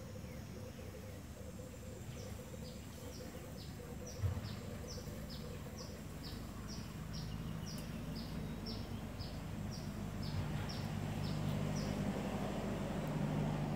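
A bird calling a long run of short, high, falling notes, about two a second, over a steady low hum, with a single low bump about four seconds in.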